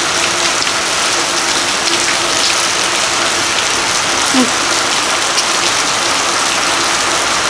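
Steady rain falling, an even hiss that stays level throughout.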